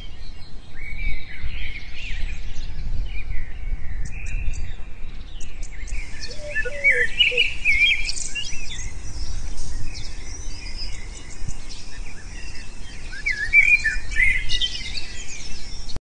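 Birds chirping and singing, many short overlapping calls and trills, busier from about six seconds in, over a low steady rumble.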